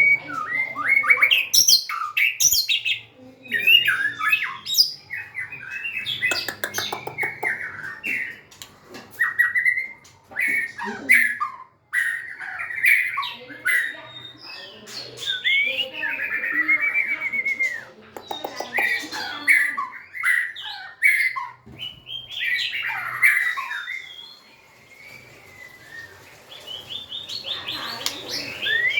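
White-rumped shama singing: a long run of varied whistled phrases and chirps, mixed with rapid rasping notes and sharp clicks, broken by short pauses and a quieter lull about three-quarters of the way through.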